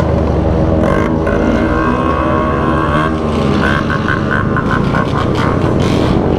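Motorcycle engines running, loud and continuous, with the pitch shifting up and down.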